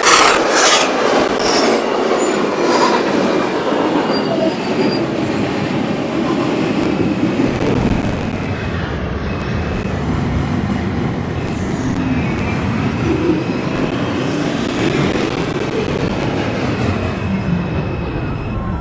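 R142 subway train running on the rails, with the wheels squealing in the first few seconds and a steady rumble of running noise after.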